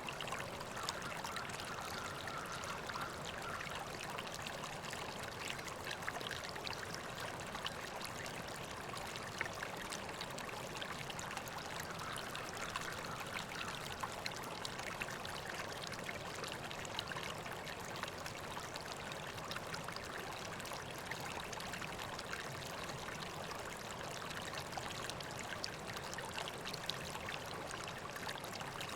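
River water flowing steadily, a continuous rush of water with many small splashes and trickles.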